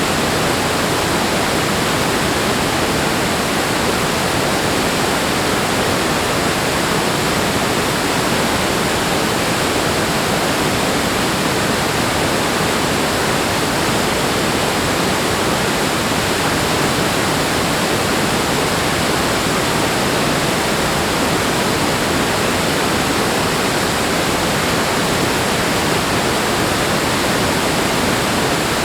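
Loud, steady rush of falling or fast-flowing water, like a waterfall or rapids, with no rise and fall.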